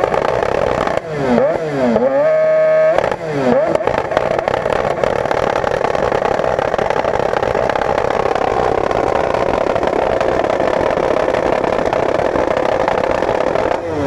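Motorcycle engine revved sharply up to its rev limiter about two seconds in, held there for under a second, then dropping back. This is followed by a steady din of running engines.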